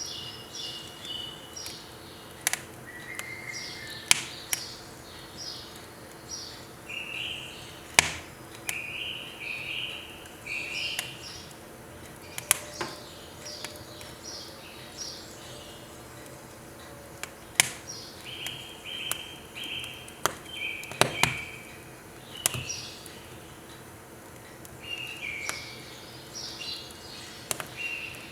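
Firewood burning in a wood stove, crackling with sharp snaps and pops at irregular moments, a handful of them loud. Over it, a songbird sings series of quick repeated notes, pausing now and then.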